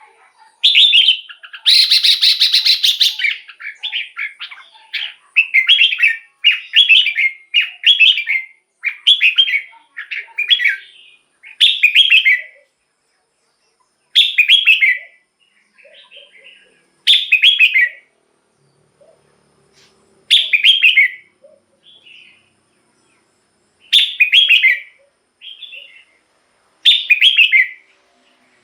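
Red-whiskered bulbul singing in short, quick phrases. About two seconds in comes a longer, harsher burst. The phrases first follow about once a second, then settle to one roughly every three seconds.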